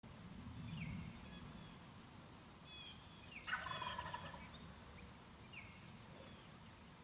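A wild turkey gobbles once, a rattling call about a second long, a little past halfway through. Short falling chirps of another bird repeat every few seconds around it.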